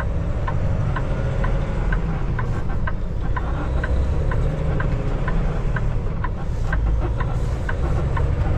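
Inside a Kenworth T680 semi truck's cab: the diesel engine running with a steady low rumble, while the turn-signal indicator clicks evenly about twice a second.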